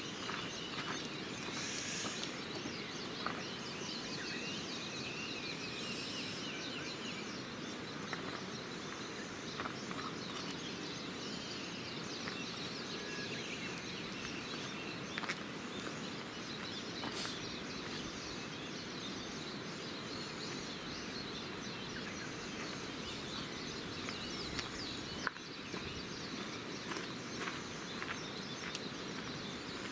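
Campfire crackling with scattered small pops over a steady outdoor background hiss, with a few bird chirps in the first few seconds.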